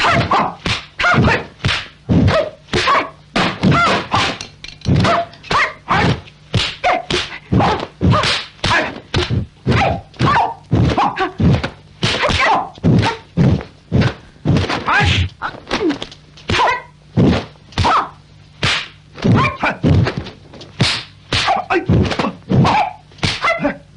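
Kung fu film fight sound effects: a rapid, irregular series of dubbed punch and kick impacts, about two a second.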